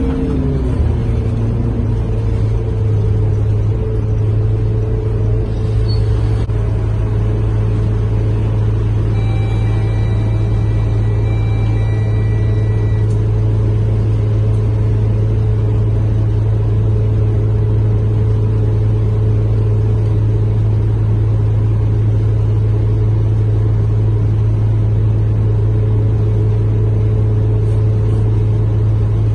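Scania K230UB bus heard from inside the cabin while cruising at a steady speed: a constant low drone from its rear-mounted 9-litre five-cylinder diesel and driveline. A faint high whine sounds for a few seconds about ten seconds in.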